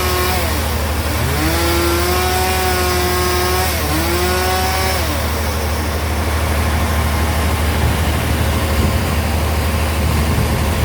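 Sawmill bandsaw running over a steady low hum from its drive engine. A pitched whine rises and falls several times in the first half, then gives way to an even rasping noise of the blade sawing through the log.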